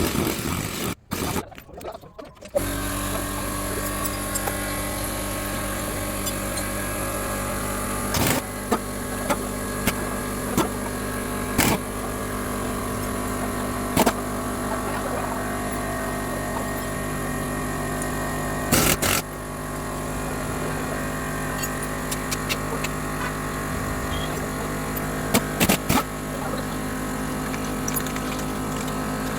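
A motor running steadily, starting about two and a half seconds in, with scattered clicks and knocks over it.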